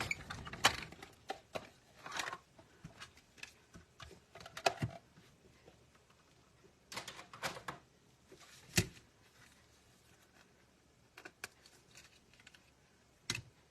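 Scattered clicks, taps and paper rustles of hands working a paper-craft die-cutting setup: a die, cutting plates and cardstock being handled. Sharper knocks come about nine seconds in and again near the end.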